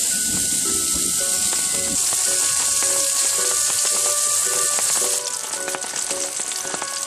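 Food sizzling and frying in a hot pan: a loud, steady hiss that eases a little about five seconds in, leaving a spattering crackle.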